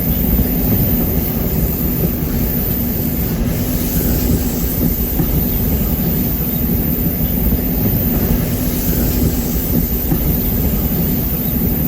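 Train running steadily at speed, heard from on board: a constant low rumble of wheels and running gear on the rails, with a faint steady hum.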